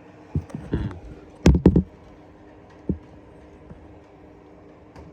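A few short knocks and clunks of handling, the loudest pair about a second and a half in, over a faint steady low hum.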